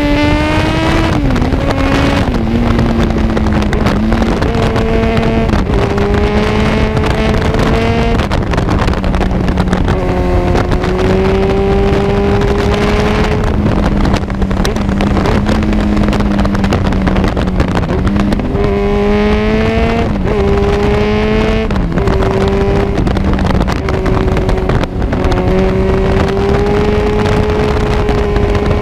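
Kawasaki Z1000's inline-four engine through an Arrow full exhaust, the rider accelerating and easing off, its pitch rising and dropping again and again, with wind rushing over the microphone.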